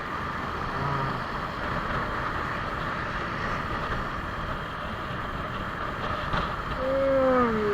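Suzuki Smash 115 motorcycle's small single-cylinder four-stroke engine running on the move, with steady wind and road rush. Near the end a pitched sound glides down and is the loudest part.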